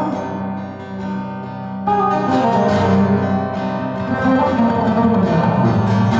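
Live acoustic guitar music with no singing: chords ringing on, softening for a moment about a second in, then a strong strum near two seconds in and steady playing after it.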